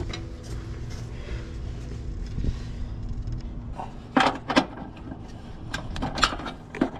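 Hand work on the car's underside: a few sharp clicks and knocks of plastic fittings and tools, twice near the middle and twice near the end, over a steady low hum.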